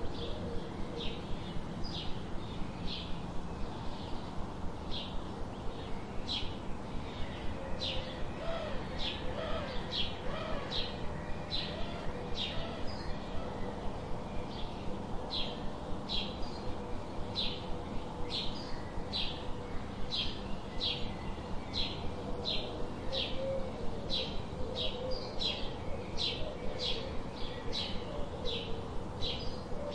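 A small bird chirping over and over, short high chirps about twice a second, with faint lower calls underneath.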